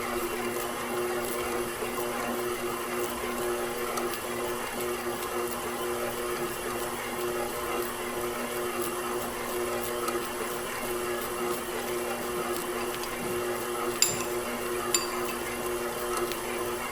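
KitchenAid Professional 6000 HD stand mixer's DC motor running steadily with an even hum while its spiral dough hook kneads bread dough. Two short sharp clicks come about a second apart near the end.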